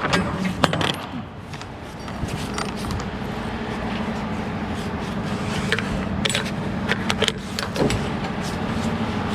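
Semi truck's diesel engine running steadily, with scattered sharp clicks and jangling rattles now and then.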